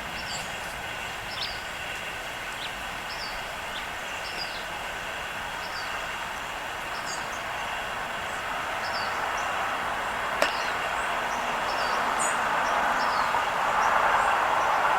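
Steady road-traffic noise that swells louder through the second half, as a vehicle approaches. Over it come many short, high chirps from small birds, and a single sharp click about ten seconds in.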